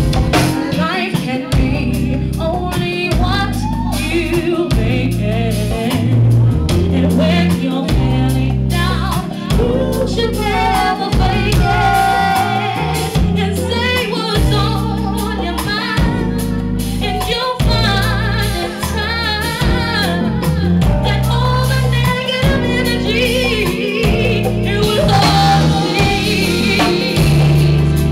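Live band music: a singer's wavering melody over a band with a heavy, sustained bass line, in a gospel-tinged style.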